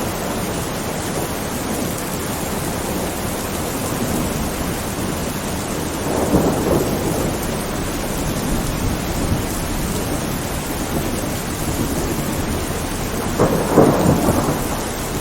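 Steady rain during a thunderstorm, with thunder rumbling twice: once about six seconds in and again, louder, near the end.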